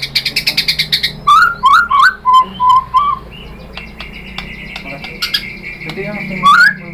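White-rumped shama (murai batu) singing. It opens with a fast rattling trill, then a few rising whistled notes and short flat whistles. From about three seconds in it is quieter, with a thin steady high tone, a few sharp clicks and one last rising note near the end.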